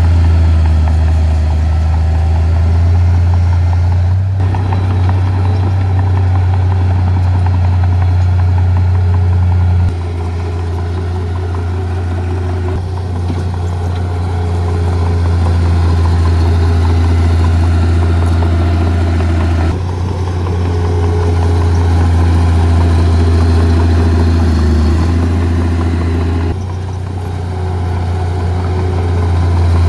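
Heavy diesel earth-moving machinery running with a steady low engine hum. Its pitch and loudness shift abruptly every few seconds.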